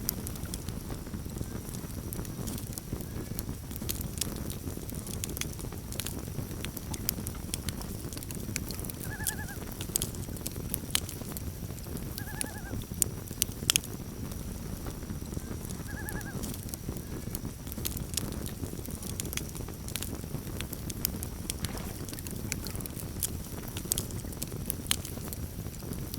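Campfire crackling and popping over a steady low rumble of burning wood. Three short, quavering common loon calls sound a few seconds apart, the first about nine seconds in.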